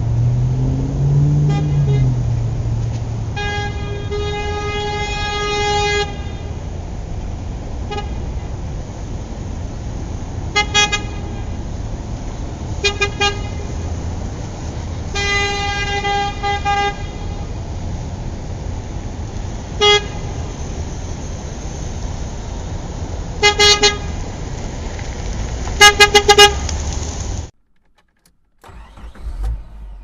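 Vehicle horn honking over steady traffic noise: one long blast, then a string of shorter toots and quick double and triple beeps, the last ones the loudest. The sound cuts off abruptly near the end.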